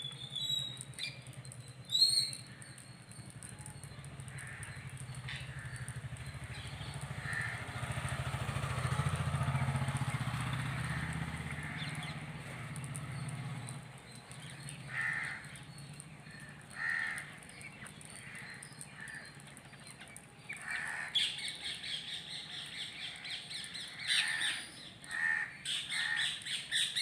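Crows cawing, with many birds calling over one another near the end. A low rumble swells and fades through the first half.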